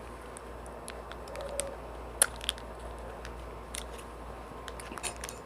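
Scattered small clicks and taps of handling and eating melting mochi ice cream, with one sharper click about two seconds in, over a low steady hum.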